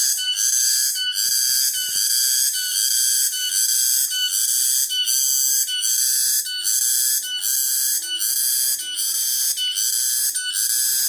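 Cicadas singing loud and shrill in an unbroken chorus, pulsing in short repeating phrases, about three every two seconds, with brief breaks between them.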